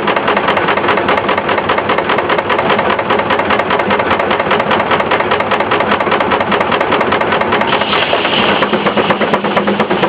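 Case steam traction engine running a belt-driven sawmill, its exhaust beating in a rapid, even rhythm.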